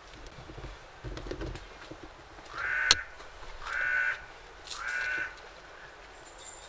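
A bird calls three times in a row, each call about half a second long and about a second apart. A sharp click comes near the end of the first call.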